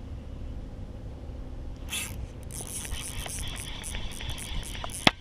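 Irregular small clicks and scrapes of gear being handled aboard a fishing kayak, over a low wind rumble, starting about two seconds in, with one sharp click near the end.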